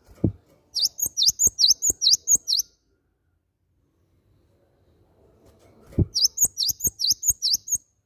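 Cinereous tit (gelatik batu) singing two phrases of rapidly repeated, high, whistled notes, about four a second, with a pause of a few seconds between them. A low thump comes just before each phrase.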